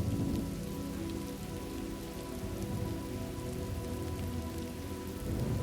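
Steady rain ambience, a continuous patter of falling rain, with soft held tones of background music underneath.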